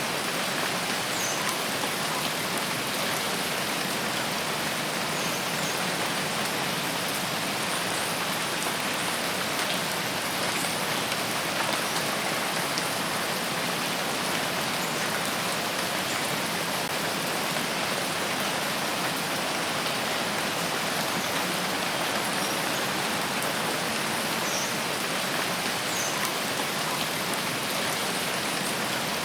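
Steady rain falling, an even dense hiss with no let-up. A few faint short high chirps come through now and then.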